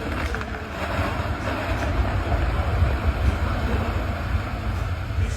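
Strong wind in a snowstorm, buffeting the microphone with a steady, heavy rumble.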